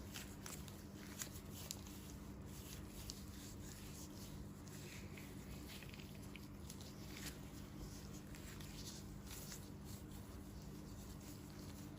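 Faint crackly scratches and small clicks of hands handling dry, peeling dead skin from the feet, over a steady low hum.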